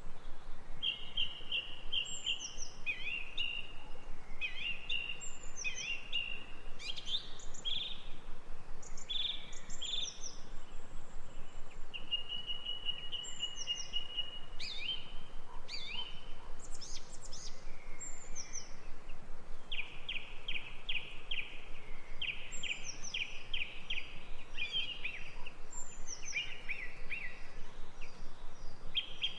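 Birds singing and calling: a busy mix of chirps, short trills and quick runs of repeated notes, with a steady hiss beneath.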